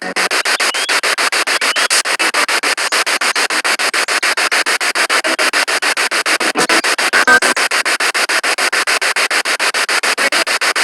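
Spirit box sweeping through radio stations: loud static hiss chopped into rapid, even pulses, with brief fragments of radio sound flickering through.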